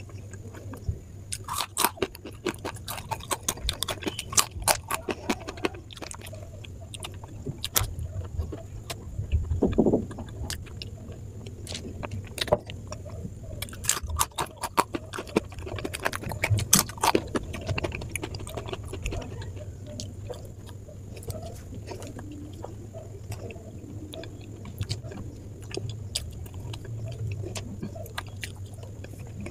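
Close-miked eating: crisp crunching of a fried namkeen snack and chewing of sweets. The crunches are thickest in the first few seconds and again around the middle, over a faint steady low hum.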